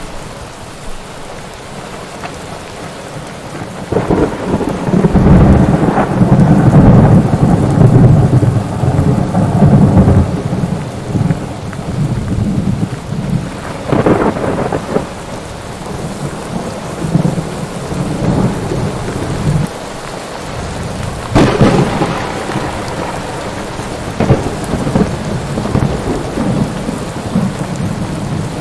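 Thunderstorm: steady rain under rolling thunder. A long low rumble builds about four seconds in, and two sharp cracks of thunder come later, each trailing off into rumbling.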